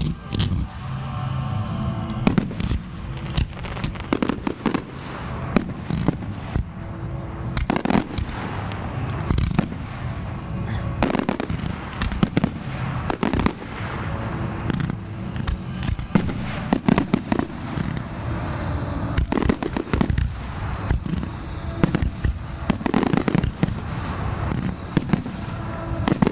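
Fireworks display with shells and comets launching and bursting in a steady stream of sharp bangs, several a second, with music playing along under them.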